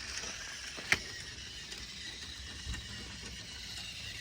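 Battery-powered Trackmaster Thomas toy train running along plastic track: a steady high motor-and-gear whine over a low rattle of wheels, with one sharp click about a second in.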